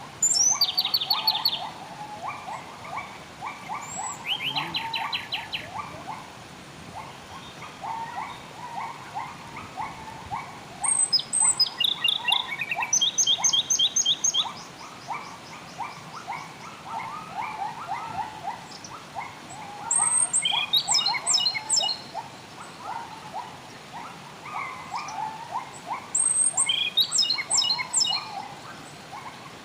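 Wild birds singing: several loud runs of rapid, evenly repeated high notes, one near the start, one about four seconds in, longer runs partway through and two more near the end, over a constant chatter of lower, quicker chirps.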